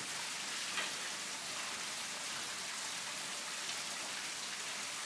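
Water running and trickling down the limestone in a cave, a steady splashing hiss.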